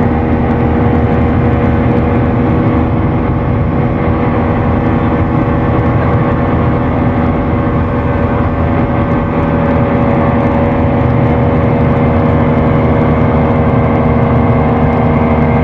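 Speedboat's outboard engine running steadily at cruising speed, a loud constant drone with an even pitch that neither rises nor falls.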